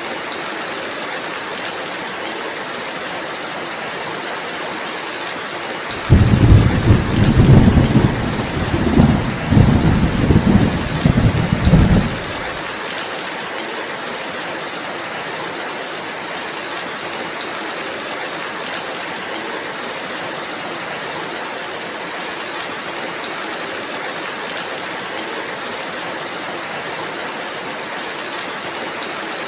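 Steady rain falling. About six seconds in, a roll of thunder starts suddenly and rumbles in several swells for about six seconds, then stops fairly abruptly.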